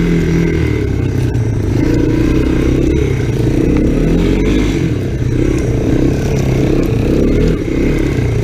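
Honda ATC 250SX three-wheeler's single-cylinder engine running steadily under way while riding through snow, with some rattling from the machine.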